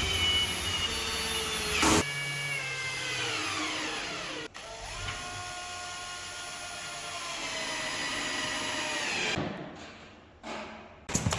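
Electric drill running under load, its whine dropping in pitch a few seconds in and then holding steady before winding down near the end. A loud burst of noise comes about two seconds in.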